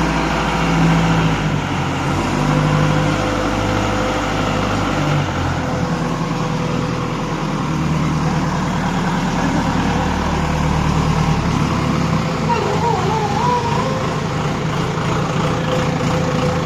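JCB machine's diesel engine running steadily with a low, even drone.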